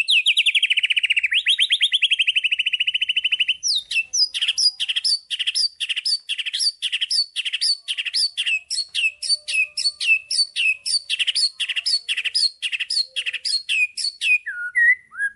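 White-rumped shama (murai batu) singing: a fast, rattling trill for the first few seconds, then a long series of sharp down-slurred notes repeated about three a second.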